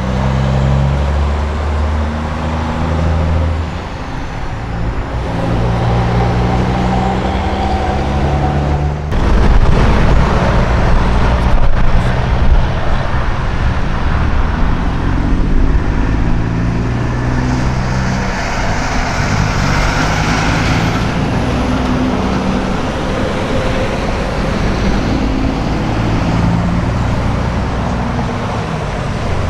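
Semi trucks' diesel engines running as the trucks move past, over steady road traffic noise, with engine pitch stepping up and down as they shift gears. It grows louder about a third of the way in, and a hiss rises and fades near the middle.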